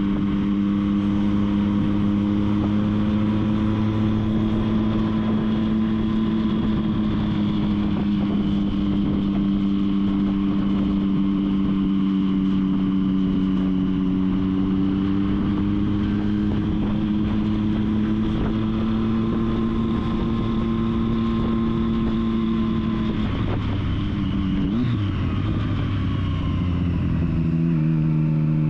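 Triumph Street Triple's three-cylinder engine running at a steady cruising speed under way, with road and wind noise. Near the end the engine note wavers and drops, then settles at a lower pitch.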